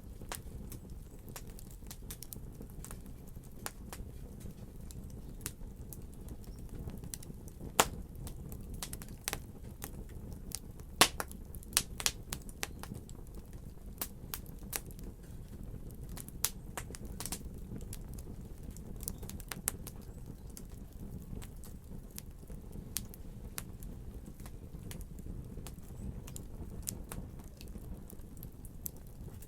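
Wood fire crackling, with many small irregular pops and snaps over a low steady rumble of the flames, and a few louder pops about a third of the way in.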